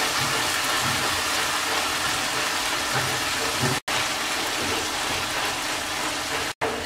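Tomato purée sizzling steadily in hot mustard oil and fried spice paste in a pan as it is stirred in with a wooden spatula. The sound cuts out for an instant twice.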